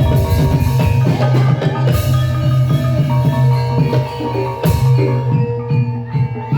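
Gamelan music accompanying an ebeg dance: hand drums and mallet-struck metal and bamboo instruments playing a repeating pattern, with heavy strokes about two seconds in and again near five seconds.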